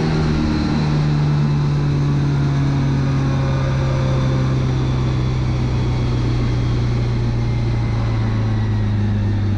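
Lada 2101 race car's four-cylinder engine heard from inside the cabin, its pitch falling slowly and steadily as the car slows down.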